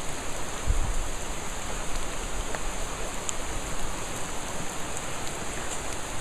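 Steady rain falling, a constant loud hiss with scattered drop ticks and a few low rumbles.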